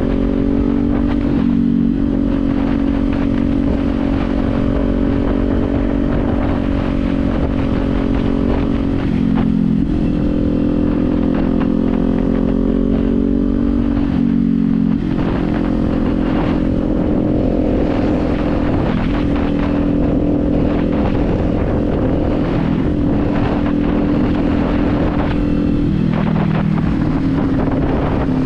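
Kawasaki Z400's parallel-twin engine running on the move at a steady note, its pitch stepping up or down several times with throttle and gear changes, with wind buffeting the microphone throughout.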